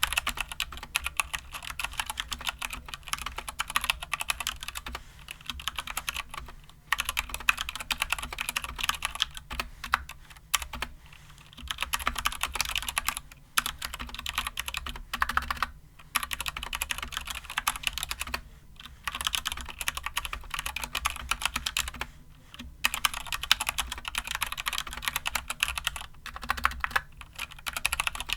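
Typing test on a stock Anne Pro 2 60% mechanical keyboard with Gateron Brown tactile switches and stock keycaps: quick runs of keystrokes clacking, broken by a few short pauses.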